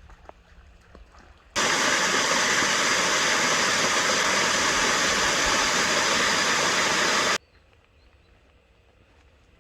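Rushing creek water, a dense steady rush that starts abruptly about a second and a half in and cuts off sharply about six seconds later, with only a much fainter sound around it.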